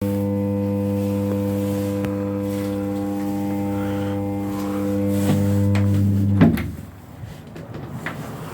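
The lock of an intercom-controlled entry door humming loudly and steadily. About six and a half seconds in it cuts off with a clunk, and a few faint clicks follow.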